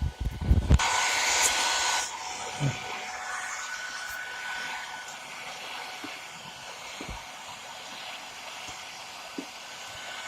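Hair dryer blowing steadily, a rush of air with a steady hum in it, heating a motorcycle headlamp to soften the sealant so the lens can be opened. It is louder for about a second near the start, with a few light knocks at the start and later.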